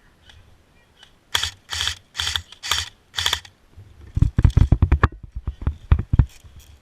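Airsoft gun firing a rapid string of sharp shots for about two seconds, beginning about four seconds in. Before it come several broad rustling strokes.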